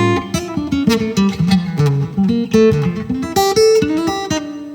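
Acoustic guitar played through a Line 6 HX Stomp XL with a classical-guitar impulse response, picking a quick melodic run of single notes that ends on a held note.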